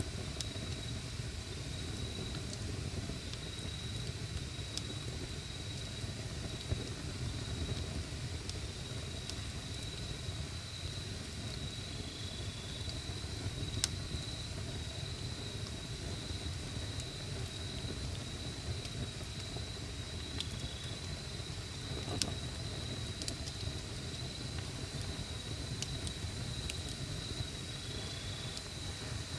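Wood campfire burning: a steady low rumble of flame with scattered crackles and a few sharp pops, the loudest about 14 and 22 seconds in. A cricket trills steadily at a high pitch behind the fire.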